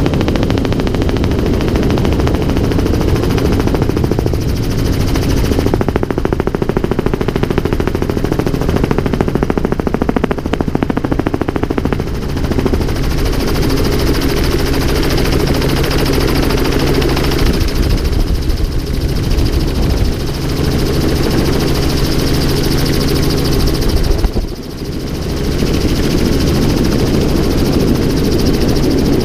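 Helicopter running steadily, its rotor chop and engine drone loud throughout, with a brief drop in level a little before the end.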